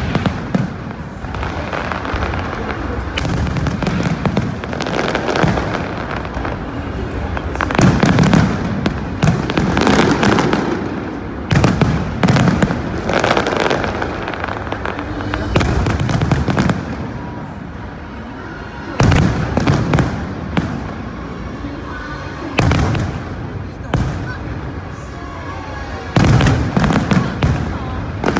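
Fireworks display: repeated bangs and crackling bursts in quick succession, with people's voices underneath.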